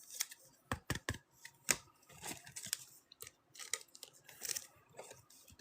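Football trading cards being handled and flipped through by hand: an irregular run of light clicks, taps and rustles as cards slide against each other and are set down.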